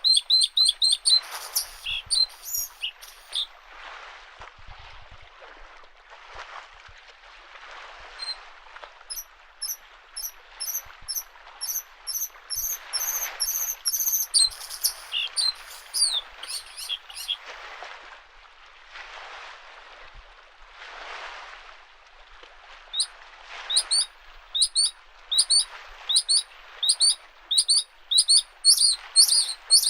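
Bluethroat singing in runs of rapid, repeated high notes, over small lake waves washing against the shore in soft, recurring swells.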